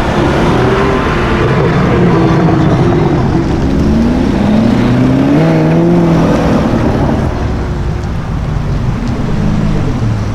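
A sports car's engine running and accelerating, its pitch climbing over a couple of seconds about halfway through, then easing off and growing a little quieter near the end.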